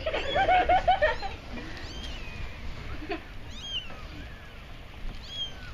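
Young kittens mewing: a quick run of short mews in the first second, then scattered thin, high-pitched mews.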